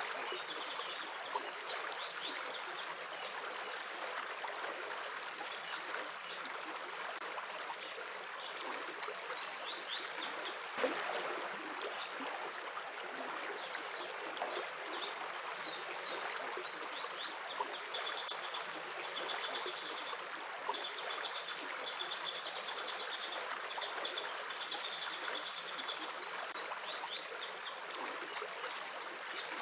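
Steady running water, like a small stream, with small birds chirping over it throughout. In the second half one bird gives a fast trill, repeated several times.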